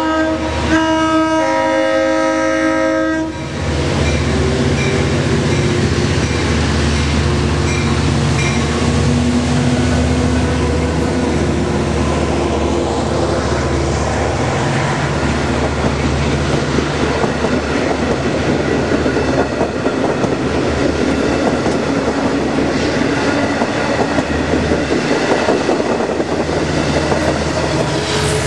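LIRR DM30AC diesel locomotive sounding its multi-tone horn, a short blast and then a longer one lasting about three seconds, as it reaches the grade crossing. The train then passes close by: engine and a steady rumble of the C3 bilevel coaches, with rapid wheel clatter over the rail joints.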